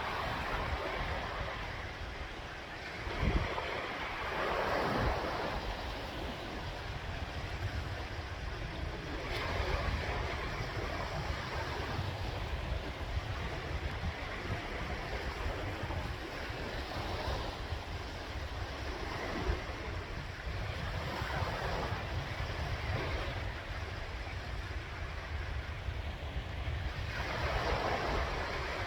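Sea waves breaking and washing ashore, the surf swelling and fading every few seconds, over a low rumble of wind on the microphone. There is a brief low thump about three seconds in.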